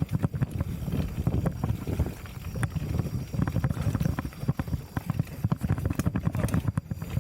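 Mountain bike rattling and knocking as it is ridden over rough trail, a dense run of irregular clattering hits over a low rumble, with wind buffeting the microphone.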